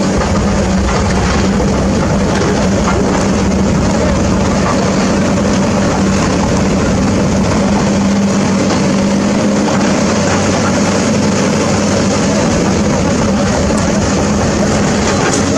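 Heavy engine running steadily at constant speed, a low hum under a broad rushing noise.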